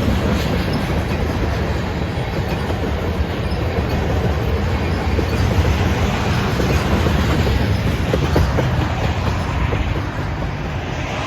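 Freight train rolling past on the rails: a steady, loud rumble and clatter of wheels on the track.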